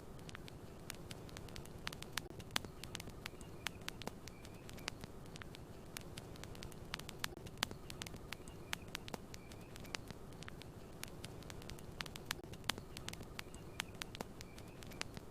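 Campfire crackling: irregular sharp pops and snaps, several a second, over a steady low hiss of burning wood.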